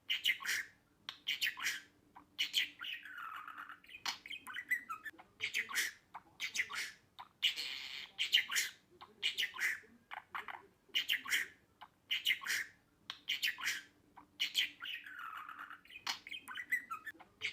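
Budgerigar chattering in quick runs of short chirps and squawks.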